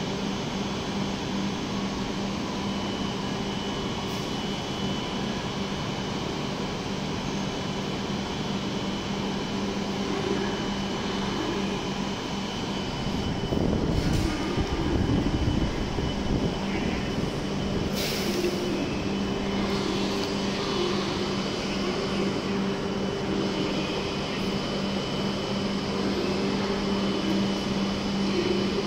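Steady hum of W7 series shinkansen trains standing at a station platform, their onboard equipment running, with a low drone and a faint high whine. A louder low rumble comes about halfway through, and a short hiss a few seconds later.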